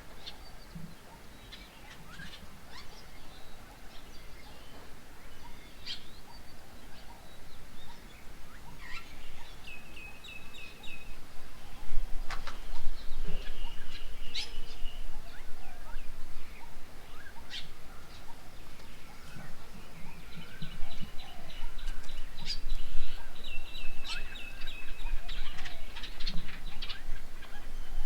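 Several birds chirping and calling at a garden bird table, with short sharp calls and fast runs of repeated trilling notes; the calling grows busier and louder about halfway through.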